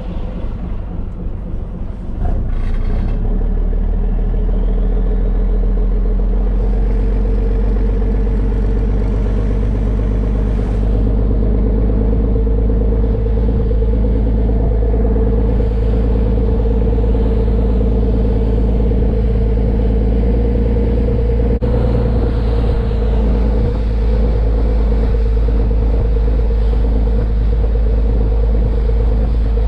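A rock-fishing ferry boat's engine throttling up about two seconds in, then running steadily under way, with a steady hum over a heavy low rumble.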